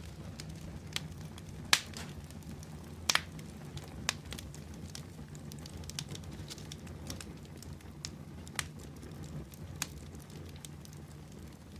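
Fire burning in a fireplace, crackling: scattered sharp pops, the loudest about one and a half and three seconds in, over a steady low rumble of the flames.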